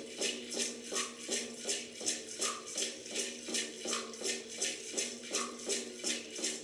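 Background meditation music: a shaker rattling at a steady beat of about two and a half strokes a second over a held low drone.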